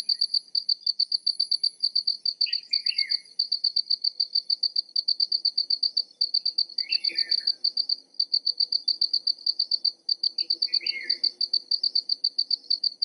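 A cricket chirping in a fast, even pulsed trill, about five or six high-pitched pulses a second without a break. A bird gives short calls three times beneath it.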